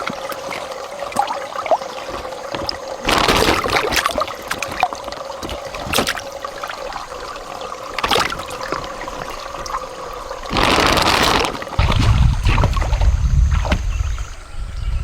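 Water trickling and splashing, with several sharper splashes. A louder rush comes about ten and a half seconds in, then a low rumble.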